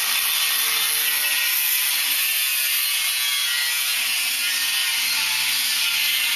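Angle grinder cutting through metal: a steady, harsh grinding noise, mostly high-pitched, held at an even level.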